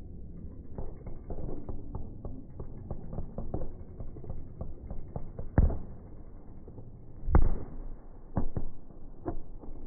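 Fireworks going off: a rapid, uneven run of pops and crackles, with two heavier bangs about halfway and three-quarters through and a few smaller ones after.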